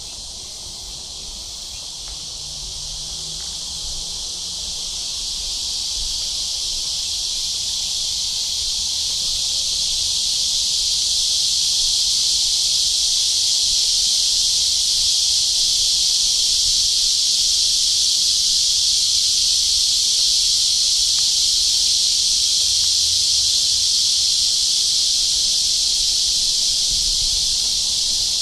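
Summer cicadas in chorus: a dense, steady high buzz that swells over the first ten seconds or so, then holds.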